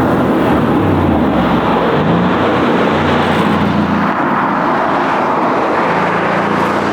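Mercedes-AMG C63 engine running hard under load, its note rising and falling with the throttle.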